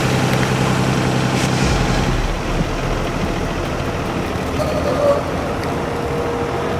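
Jet aircraft engines running on the ground: a loud, steady, dense noise with a low hum underneath, which shifts in tone about two seconds in.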